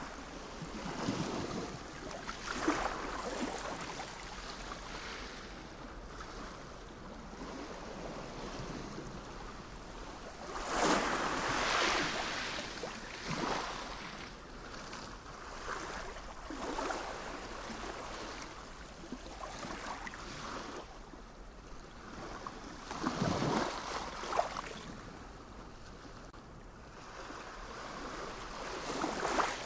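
Sea waves breaking and washing in, an irregular series of swells every few seconds, with the biggest surges about a third of the way in and again near the end.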